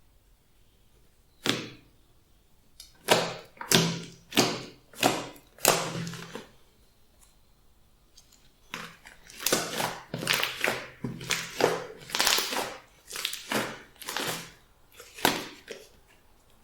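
Glossy slime being squished and pressed by hand, giving a series of sticky squelching clicks and pops, several a second, with a short pause in the middle.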